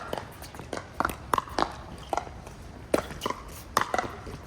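Pickleball paddles striking the ball: sharp, hollow pops at irregular intervals, some loud and others fainter, over a low wind rumble.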